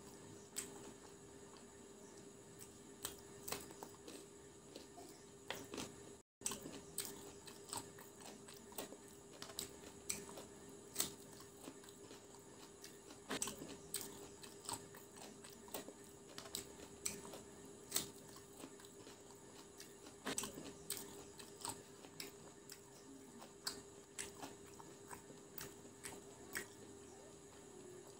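Close-up mouth sounds of a person chewing and biting fried chicken pakora and salad, with frequent sharp, irregular crunches and wet mouth clicks. A faint steady hum lies underneath.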